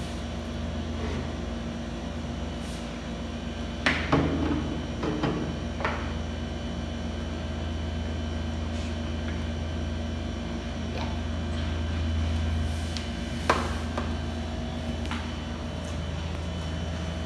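A steady low electrical or air-conditioning hum with a few faint fixed tones, broken by a few short knocks and clatters of objects being handled, the sharpest about four seconds in and again near the end.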